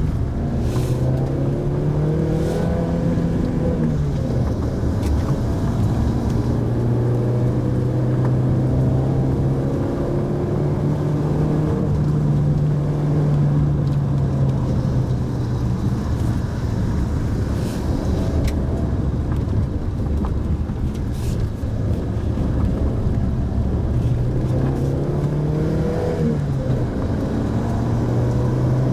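Mitsubishi Pajero Mini's 660 cc kei-car engine pulling the car along a road, its note climbing over the first few seconds and dropping sharply at a gear change, running steady, then climbing and dropping at another gear change near the end, over steady road and tyre noise.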